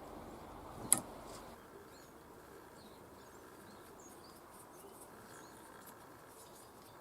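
A single sharp click about a second in, over a low steady background, followed by faint, scattered bird chirps.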